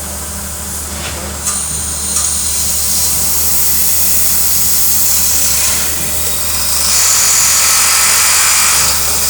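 Compressed air hissing over a steady low machinery hum: the Snow tandem double-acting gas engine being air started. The hiss builds from about a second and a half in and is loudest near the end.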